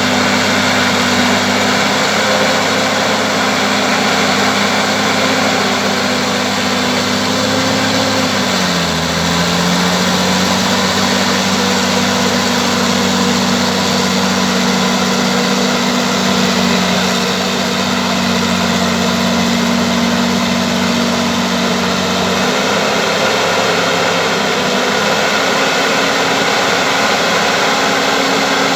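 Bulldozer's diesel engine running steadily. Its pitch drops suddenly about eight seconds in and climbs back slowly later on.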